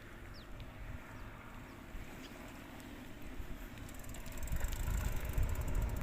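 Wind rumbling on the microphone while riding a bicycle, growing stronger about halfway through, with a few faint high falling chirps in the first couple of seconds.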